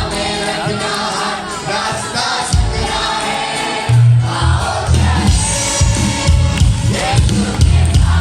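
Worship music: many voices singing together over a band, with a heavy bass beat coming in about two and a half seconds in.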